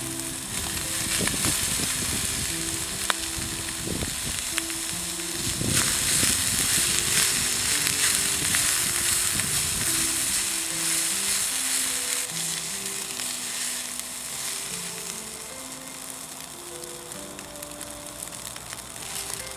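Fried rice sizzling in a hot wok, loudest in the middle and thinning toward the end, with a few low knocks in the first seconds. A soft melody of short notes plays over it.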